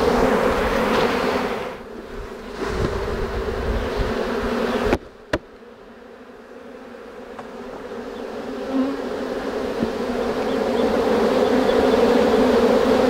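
Steady buzzing hum of a honey bee swarm at close range. About five seconds in, a sharp click and the buzzing drops away suddenly, then swells back up over the next several seconds.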